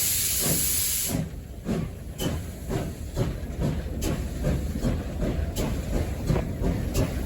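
Steam locomotive heard from the cab: a loud hiss of steam cuts off suddenly about a second in, then the engine works along the rails with a steady rumble and exhaust beats about two a second.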